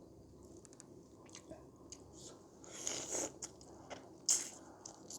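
Close-up eating sounds: chewing and biting on pork curry, with small wet mouth clicks and smacks. Two louder, short hissing sounds come about three seconds in and just after four seconds.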